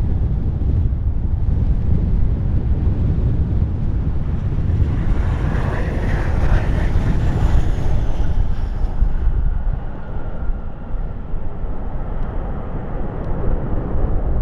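Strong wind buffeting the microphone, with a jet aircraft passing: its engine noise swells from about five seconds in, a high whine falling in pitch, then fades away.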